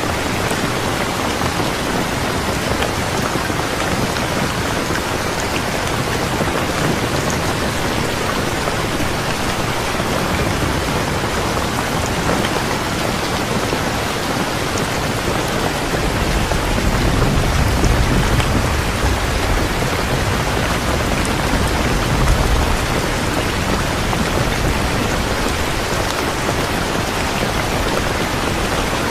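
Steady rain falling. A low rumble of thunder swells for several seconds a little past halfway.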